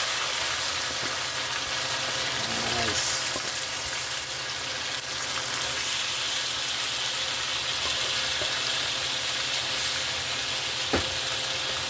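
Chicken pieces sizzling steadily as they brown in a hot pot of caramelized brown sugar, for Trinidad-style stew chicken, with a single sharp knock near the end.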